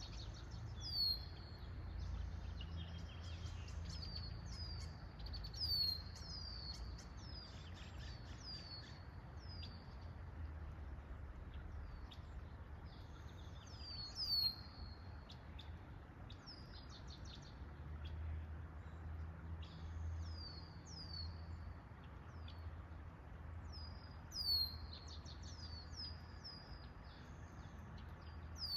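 Small birds chirping: repeated short, high, downward-sliding chirps, coming in clusters throughout, over a steady low rumble.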